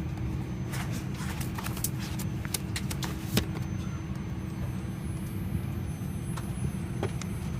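Steady low cabin hum of an Airbus A320 parked at the gate, with a faint steady tone. Scattered small clicks and knocks run through it, most of them in the first half.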